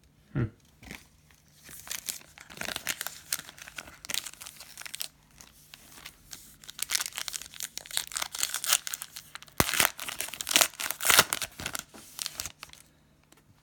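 Panini Prizm Fastbreak basketball card pack wrapper being torn open and crinkled, in two long stretches of crackling, with a soft thump just after the start and a sharp click about ten seconds in.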